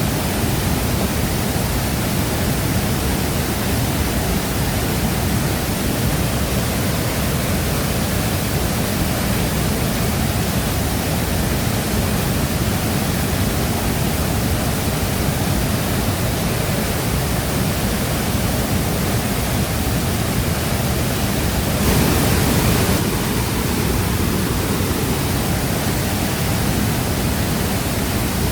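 Shifen Waterfall's water pouring and crashing steadily, a dense, even rushing noise. About three-quarters of the way through it briefly swells louder for about a second.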